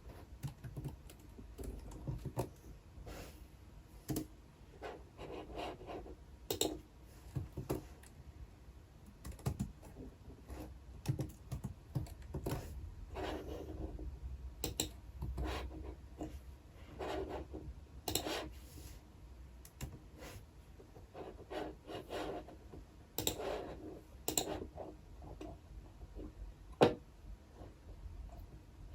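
Typing on a computer keyboard: irregular runs of soft keystrokes with pauses between them, and one sharper click near the end.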